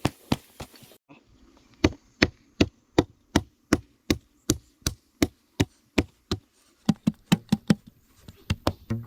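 A steady series of sharp blows, like a hand tool chopping or hammering, at about two to three strikes a second. The series breaks off briefly twice and starts again.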